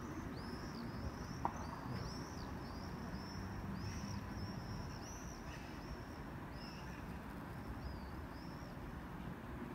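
Birds chirping over and over with short, high calls over a steady low background rumble. There is a single sharp click about a second and a half in.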